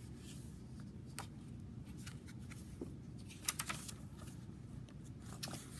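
Paper pages and card inserts of a handmade junk journal being handled and turned: soft rustles and scattered light clicks, with a small cluster about three and a half seconds in, over a low steady background hum.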